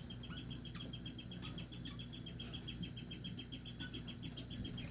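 A small pet parrot making a rapid, steady run of short high chirps, about eight a second, with a few brief falling whistles mixed in.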